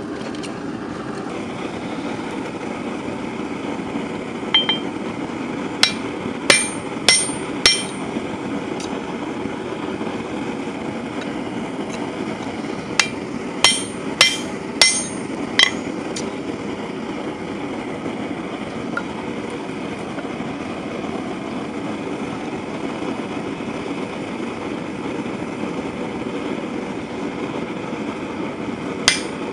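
Hand hammer striking a punch or tool on hot steel over the anvil, punching a slug out of a square bar: two groups of about five sharp, ringing metal blows, then a single blow near the end. A steady low roar runs underneath.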